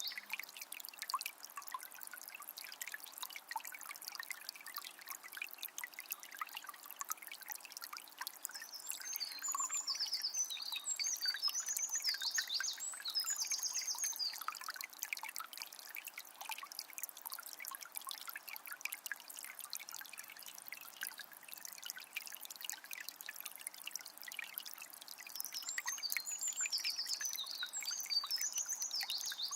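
Water of a small spring trickling and splashing steadily. A songbird sings in a run of quick phrases about a third of the way in and again near the end.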